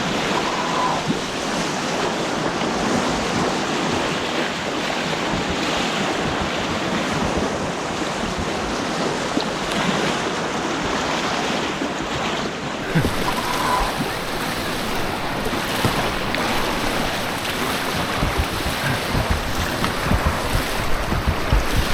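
Whitewater rushing steadily through rapids. From about halfway through, wind buffets the microphone with low gusts.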